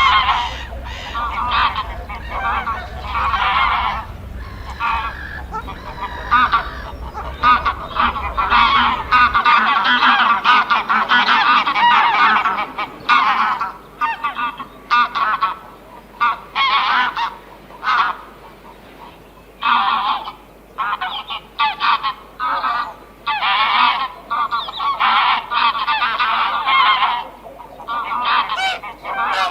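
A flock of birds giving loud honking calls, many overlapping, in irregular bursts. A low background rumble stops about nine seconds in.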